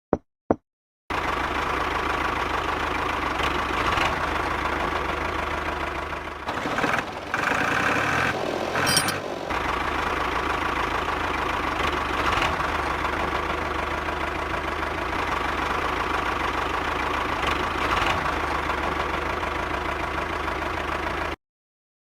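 Engine running at a steady idle, with a busier, higher stretch in the middle; it starts and stops abruptly, like an edited-in sound effect.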